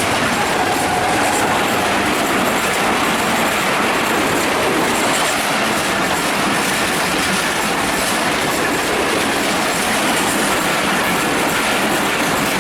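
Passenger train passing close by at speed: a loud, steady rumble and clatter of wheels over the rails.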